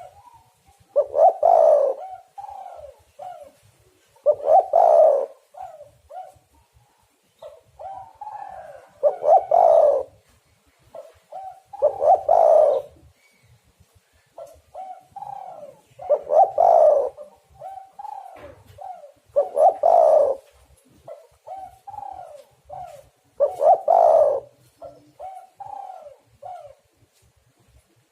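Spotted dove (tekukur) singing its cooing song over and over: a loud rolling coo about every three and a half to four seconds, with softer short coos between, from a bird kept for being a prolific singer.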